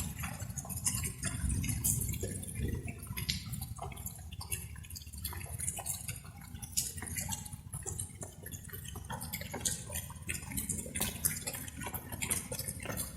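Light rain: raindrops falling and dripping in irregular, closely spaced ticks over a low steady rumble.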